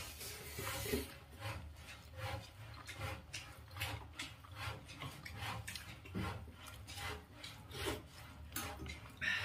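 Eating sounds close to the microphone: steady rhythmic chewing of a mouthful of rice and salad, with fingers mixing the food on the plate.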